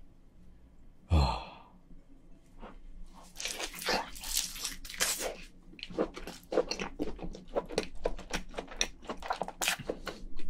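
A person chewing a mouthful of soft boiled lobster meat: many quick, irregular wet mouth clicks from about three seconds in, after a short hum about a second in.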